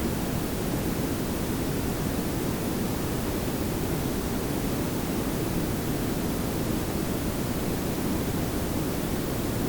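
Layered pink and brown noise: a steady, even hiss with a strong low rumble and softer highs, unchanging throughout.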